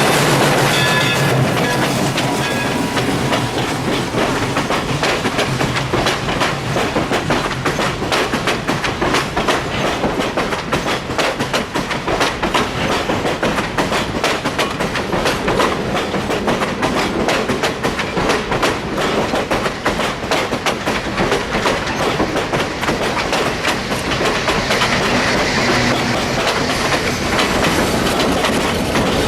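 A train hauled by Central Railroad of New Jersey 0-6-0 steam locomotive No. 113 rolling along, its wheels clicking steadily and rapidly over the rail joints.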